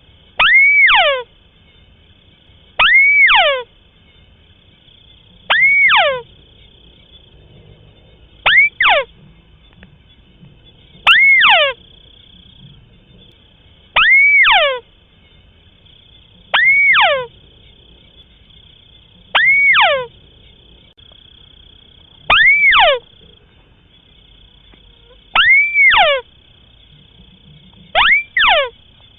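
White-browed crake calling over and over, about every three seconds: each call is a short note that rises then falls steeply, sometimes doubled.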